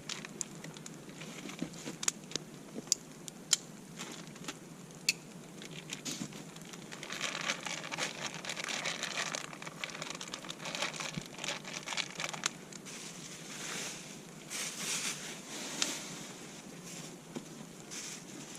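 Wood campfire crackling, with several sharp pops in the first few seconds, then stretches of crinkling and rustling from about seven seconds in.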